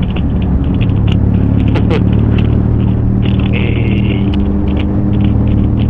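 Motorcycle engine running steadily at riding speed, its note shifting slightly about four seconds in, with road and wind rush over it.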